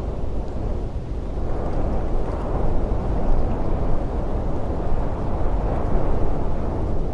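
Strong, gusting wind sound effect: a steady low rumbling rush that swells slightly a couple of seconds in.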